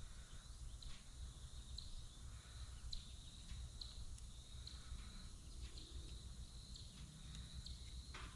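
Faint insect chirping: a thin high tone pulsing about once a second, over a low background rumble, with a few light clicks.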